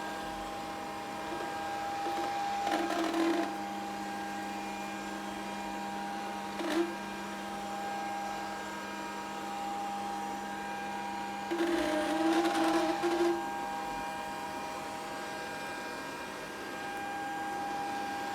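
Grundig VCR 2131 robot vacuum running with a steady motor hum. It gets louder three times: for about a second near the start, briefly in the middle, and for about two seconds later on.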